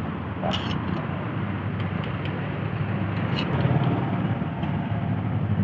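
An engine running steadily with a low hum that swells slightly a little past the middle, with a couple of light clicks about half a second and three and a half seconds in.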